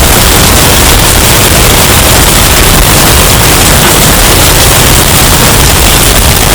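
Hurricane wind sound effect, heavily bass-boosted and distorted into a constant, clipped wall of noise with no let-up.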